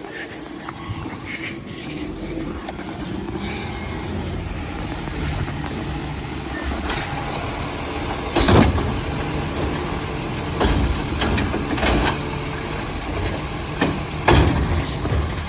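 An Autocar Expeditor garbage truck with a Bridgeport Ranger automated side-loader, its engine revving steadily and getting gradually louder. In the second half there are four loud bangs about two seconds apart.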